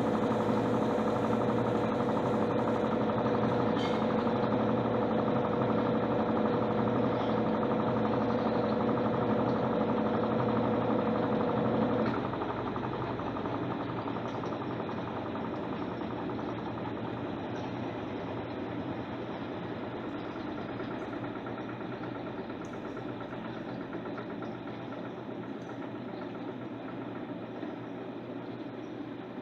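Electrolux LTC10 washing machine running through its jeans program: a steady mechanical running sound with a strong humming tone that stops about twelve seconds in, leaving quieter running.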